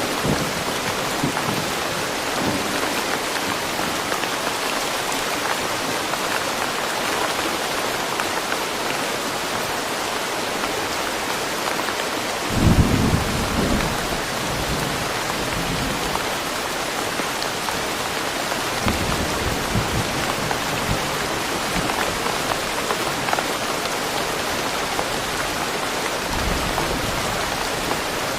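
Steady rain falling in a forest, with low rumbles of thunder: the loudest comes about halfway through, and fainter ones follow later.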